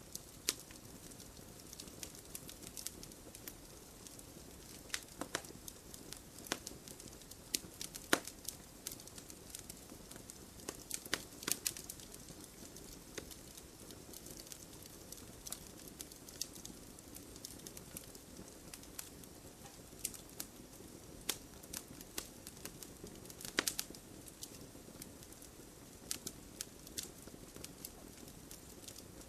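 Campfire crackling: irregular sharp pops and snaps over a steady soft hiss of the flames, with a few louder pops about a third of the way in and again past the middle.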